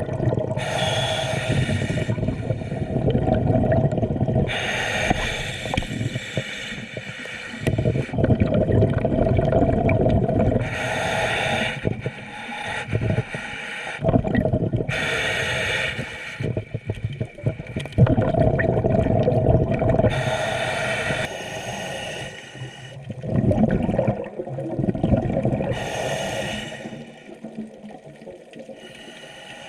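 A scuba diver breathing through a regulator underwater: short hissing inhalations alternating with longer stretches of bubbling exhalation, about one breath every five seconds.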